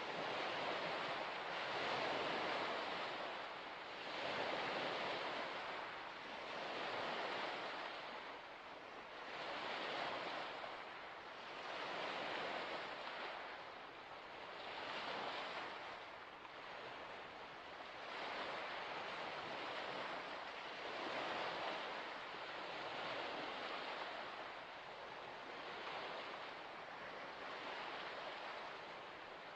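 Waves washing onto a shore, the rush of water swelling and fading about every two to three seconds.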